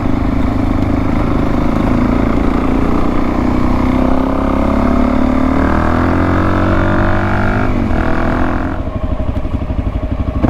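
Suzuki DR-Z400S single-cylinder four-stroke engine running under way, rising in pitch as it accelerates from about four seconds in, then easing off near the end.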